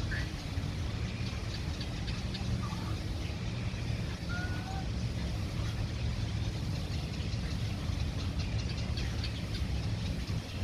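City park ambience: a steady low rumble of surrounding traffic, with scattered short bird chirps and calls over it.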